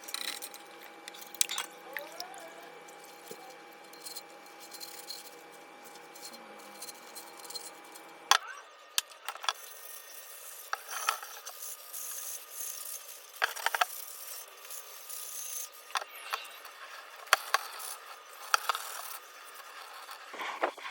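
Scraping and scrubbing on cast iron cookware, broken by sharp clicks and knocks of metal on metal.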